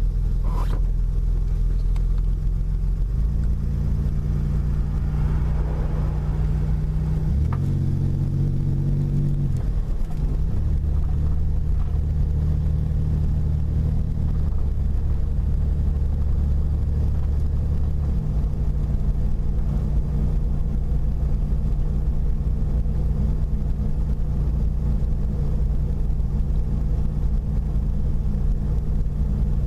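Car engine and road noise while driving, a steady low hum whose pitch shifts several times as the car changes speed.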